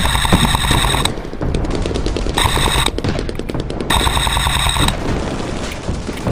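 An M249-type airsoft electric support gun firing full-auto in three bursts, each about half a second to a second long. Each burst is a rapid clatter of shots over a high whine.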